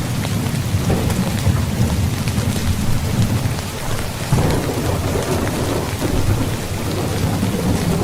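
Steady heavy rain with a continuous low rumble of thunder; about four seconds in, a louder roll of thunder swells up over the rain.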